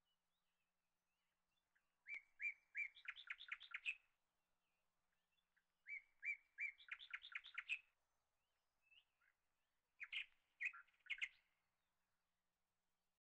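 A songbird singing three short phrases a few seconds apart. Each phrase is a few separate chirps followed by a quick trill.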